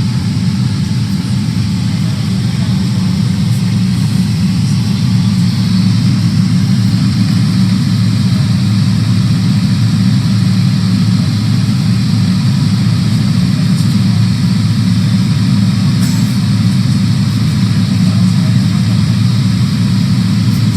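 Steady low drone of engine and airflow noise inside the cabin of a Boeing 777-300ER airliner, with a fainter hiss above it.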